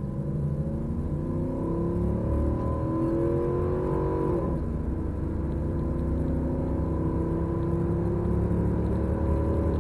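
A 2003 Ram 2500's 5.7 HEMI V8 accelerating at full throttle from a standstill, its pitch climbing steadily. About four and a half seconds in, the pitch drops at an upshift and then climbs again.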